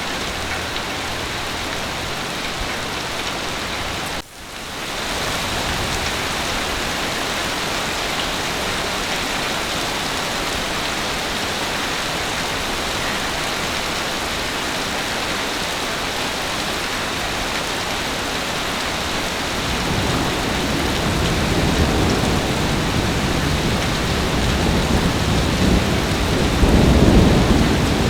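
Heavy rain falling steadily, with a brief dip in the sound about four seconds in. In the last third a low rumble of thunder builds up and is loudest near the end.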